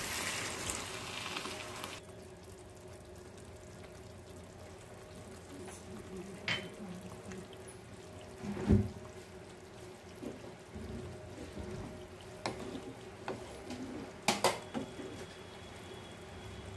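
Rugda mushroom curry sizzling in the pan for about two seconds, then cut off suddenly. After that it is quiet under a faint steady hum, with a few clicks and knocks of a spoon against the pan as spice powder is added and stirred in; the loudest is a single thump about halfway through.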